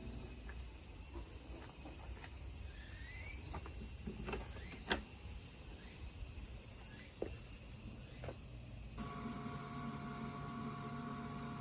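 Steady high-pitched chorus of insects, with a few faint clicks, one sharper click about five seconds in. About nine seconds in the background changes and a steady hum joins.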